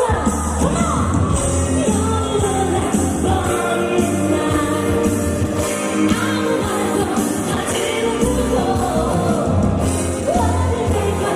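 Live pop song: a woman singing into a microphone over a loud backing track played through a PA system.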